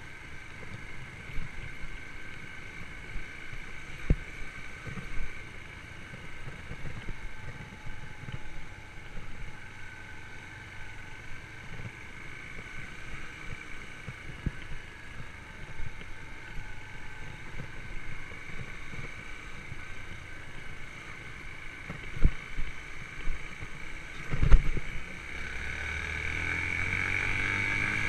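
Yamaha YBR125 motorcycle's single-cylinder four-stroke engine running steadily under way, with a few sharp knocks; the engine grows louder over the last few seconds.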